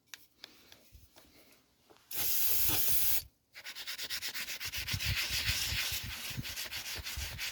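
Old gasket residue being scrubbed off a lawn-tractor engine's cylinder head. A steady hiss lasts about a second, then rapid, continuous scrubbing strokes follow.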